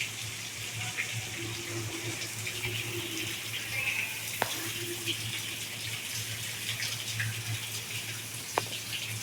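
Steady running water, with short bird calls breaking in now and then over it. Two sharp clicks sound, one about four seconds in and one near the end.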